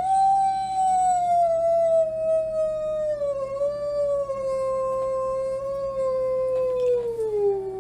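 A dog howling in one long unbroken note that starts high and slides slowly lower, dropping further near the end, played back through computer speakers.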